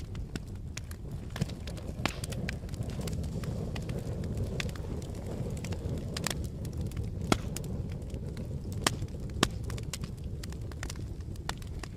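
Campfire burning: wood crackling and popping irregularly over a steady low rumble of flames, with a few sharper, louder pops in the second half.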